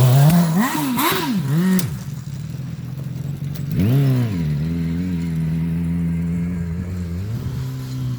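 Small gasoline engine of a Grave Digger mini monster truck buggy, just started after a fouled spark plug was cleaned, revved up and down several times in the first two seconds and once more about four seconds in, then running at a steady idle.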